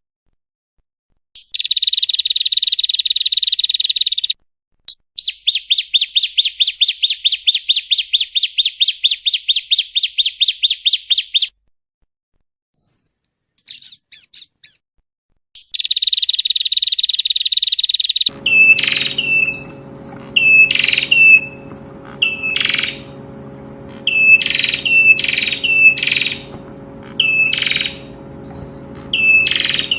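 Prenjak (prinia) song: a buzzy trill, then a fast even trill of about six or seven notes a second, a pause, another buzzy trill, and then a run of short, sharp, falling chirps repeated about once a second. The last part comes with a steady low hum underneath.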